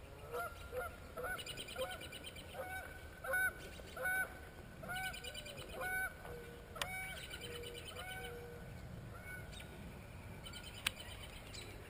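A bird calling over and over in short pitched calls, about two a second, which stop after about nine seconds. A sharp click comes near the end.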